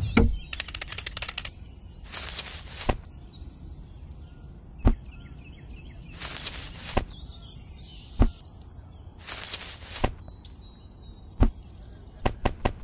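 Edited-in sound effects: a fast run of clicks, then three short whooshes each ending in a sharp pop, with more single pops between them and faint birdsong underneath. Near the end a quick, even series of taps starts, about four a second.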